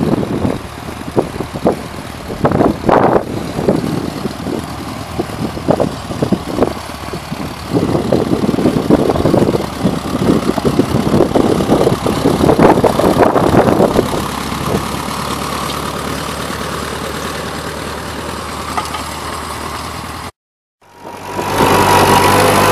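Wind buffeting the microphone in gusts, with an engine running low underneath. After a cut near the end, a tractor engine idling steadily and clearly.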